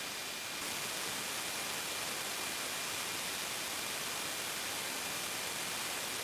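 Steady hiss of static on a B-52's radio and intercom channel, with a faint steady high whine; it gets a little louder about half a second in.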